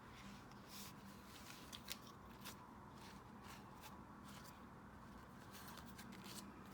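Soft rustles and light ticks of paper and stationery being handled, a dozen or so short sounds spread unevenly, over a faint steady hum.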